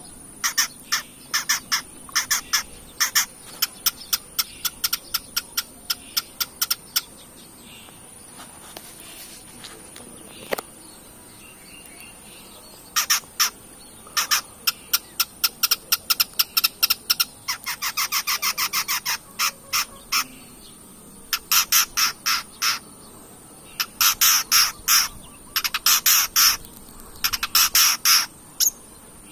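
Long-tailed shrike (cendet) singing in runs of rapid, sharp chattering notes, with a pause of several seconds about a third of the way in. A steady high-pitched whine runs underneath.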